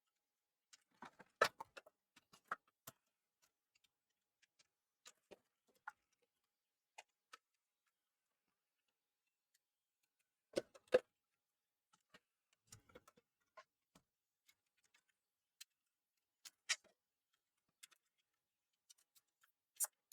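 Scattered small clicks and taps of parts and tools being handled on an opened PS4 Slim, irregular, with silence between them; the loudest knocks come about a second and a half in and again about eleven seconds in.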